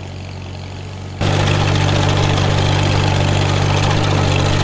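Farmall H tractor's four-cylinder engine running at a steady speed; about a second in the sound suddenly gets much louder and a dense clatter and hiss joins the engine, its pitch unchanged.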